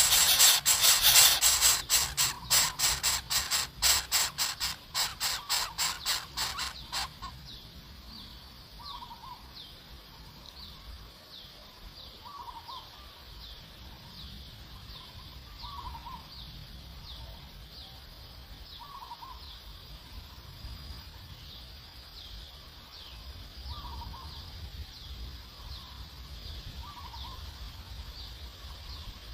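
A loud, fast rattle of sharp clicks that stops about seven seconds in, followed by faint bird calls: short high chirps repeating about twice a second and a lower call every few seconds.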